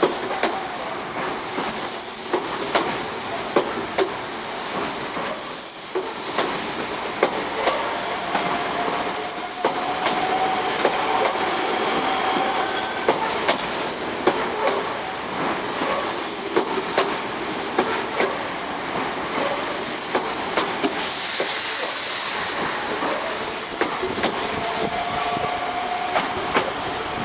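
Osaka Municipal Subway 66 series electric train pulling out of a station: a faint inverter motor whine rising slightly in pitch over the steady rumble and hiss of the cars, with wheels clacking over rail joints in a run of sharp clicks.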